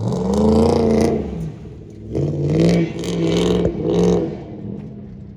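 Ford Crown Victoria's 4.6-litre V8 being revved: the engine rises sharply and holds for about a second and a half, then is blipped three more times.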